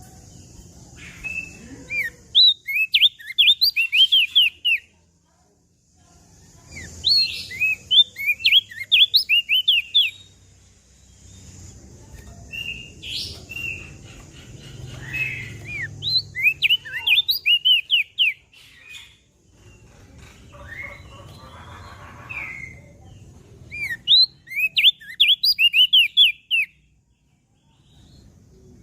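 Crested white-eye (opior jambul) singing: rapid phrases of sharp, high, downward-slurred notes, delivered in bursts of two to four seconds with short pauses between them, about six phrases in all.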